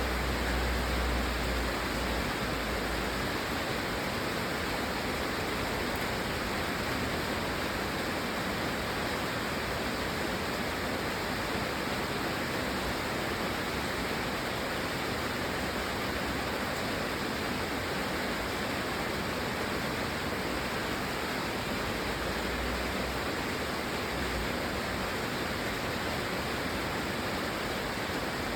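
Steady, even rain noise with no breaks. A low rumble sits under it for the first few seconds and briefly again near the end.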